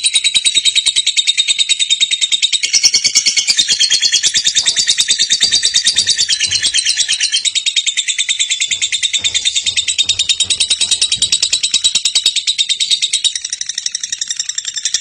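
Lovebird 'ngekek': a long, unbroken, high-pitched chattering trill of many rapid notes a second. It eases slightly near the end.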